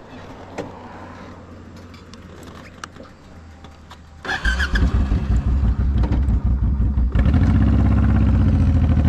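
Honda VTX1800 V-twin with aftermarket Vance & Hines pipes starting: it cranks and catches about four seconds in, then runs loud and steady, getting louder again about seven seconds in.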